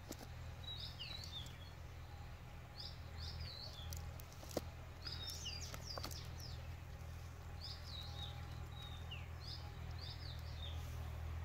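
Small birds chirping in short runs of quick, sharp notes every second or two over a steady low hum, with one sharp click about four and a half seconds in.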